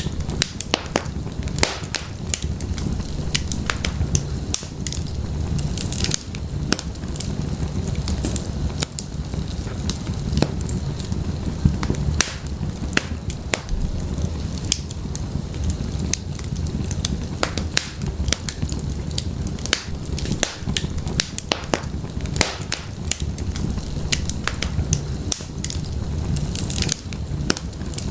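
Wood fire burning in an open fireplace: a steady low rumble of flames with irregular sharp crackles and pops from the burning firewood.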